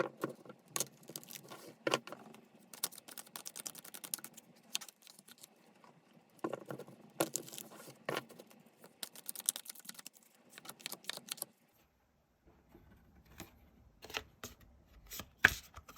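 Tarot cards being shuffled and handled: a dense run of clicks and rustling, then, after a lull, a few separate sharp taps, the loudest near the end.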